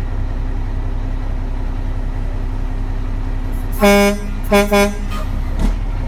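A truck horn honks three times, one longer blast and then two quick short toots, over the steady rumble of the truck's engine and road noise. A dull thump follows near the end.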